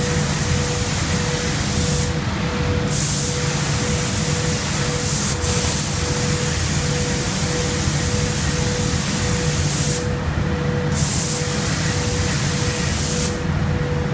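Paint spray gun hissing as it sprays, cutting out briefly a couple of times and again near the end, over a steady low machine hum and a faint tone pulsing about twice a second.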